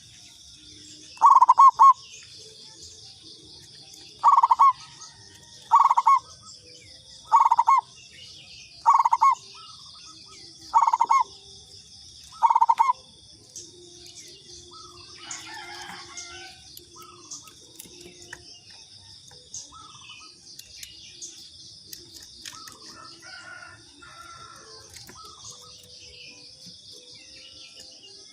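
Zebra dove (perkutut) cooing: seven loud coos about a second and a half apart in the first half, then softer chirps from other birds over a steady high insect buzz.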